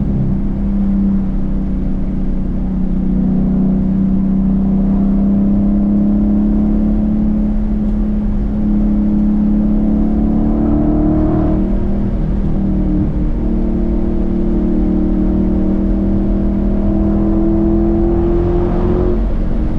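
Dodge Challenger's engine and exhaust under way, holding steady at first, then twice pulling with the pitch climbing slowly before dropping sharply at an upshift, once about two thirds of the way through and again near the end.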